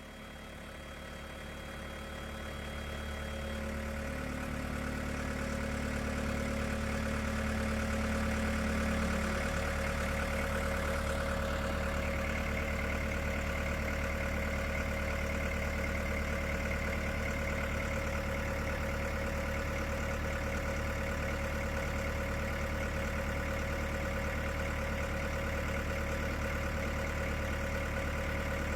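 An engine idling steadily. It grows louder over the first several seconds, then holds at an even level.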